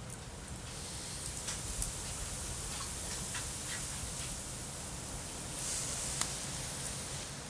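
Wood fire burning with a steady hiss and scattered crackles and pops; the hiss swells briefly about six seconds in, capped by one sharp pop.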